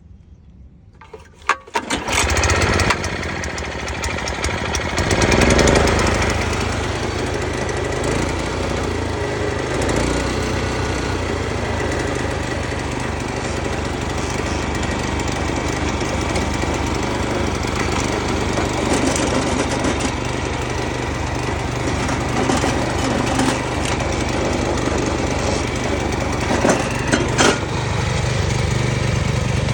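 Kubota TRS60 tractor engine starting: a few clicks, then it catches about two seconds in, rises briefly around five seconds in, and settles into a steady run.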